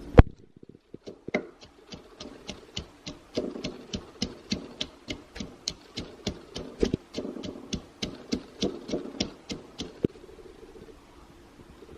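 Rapid, even strikes of kitchen food preparation, about three a second, each a sharp click with a dull knock beneath, starting about a second in after one loud knock and stopping about ten seconds in.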